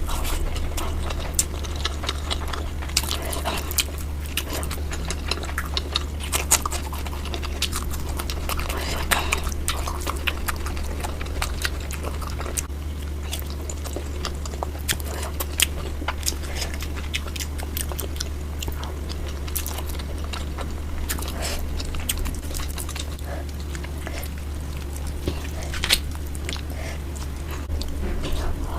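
Close-miked chewing and biting of tandoori chicken: wet mouth sounds with many short crackles and clicks as the meat is torn and chewed, over a steady low hum.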